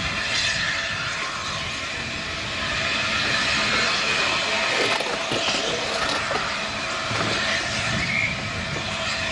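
A train moving along the track: a steady rumble of the wheels on the rails, with a few sharp clicks about halfway through.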